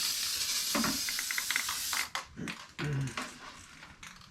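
Aerosol can of PJ1 air filter cleaner spraying onto a foam air filter in a steady hiss that stops about two seconds in, followed by a few light clicks and handling sounds.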